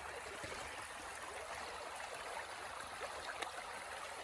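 Stream water flowing steadily, faint and even, with a couple of light clicks about three seconds in.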